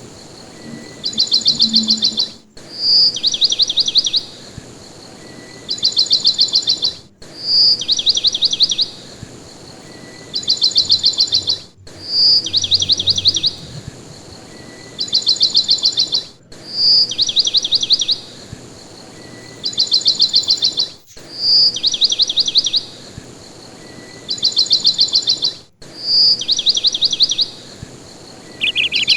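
A small bird's call repeating in an even cycle about every four and a half seconds: a single high clear note, then a rapid trill of fast, clicking notes lasting about a second. The repeats are identical, like a recorded call played on a loop.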